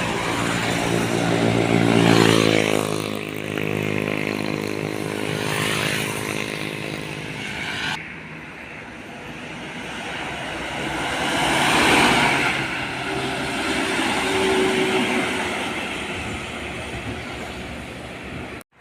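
Heavy trucks' diesel engines passing on a road. The first engine note changes pitch over the first few seconds. After a sudden cut about eight seconds in, another vehicle passes, loudest about twelve seconds in.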